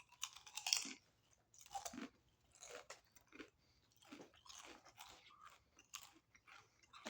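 A person chewing a mouthful of crunchy potato chips close to the microphone, in irregular crunches about every half second.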